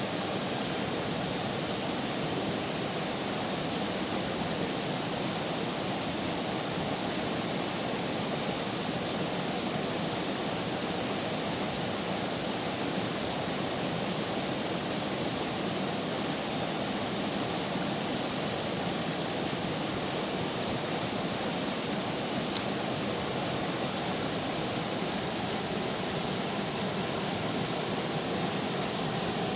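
River water flowing, a steady, even rushing noise with no breaks or changes.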